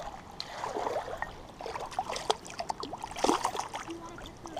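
Water splashing and trickling in short, irregular bursts with small clicks as a caught trout is handled and unhooked.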